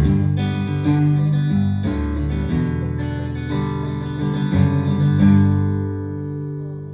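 Band playing the closing chords of a song on strummed acoustic and electric guitars with bass, a new chord about every second, the last chord ringing out and fading near the end.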